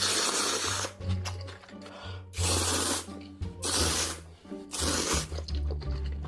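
Close-miked eating sounds: about four loud, hissing slurps, each under a second long, typical of ASMR mukbang noodle eating. Background music with a low bass line plays throughout.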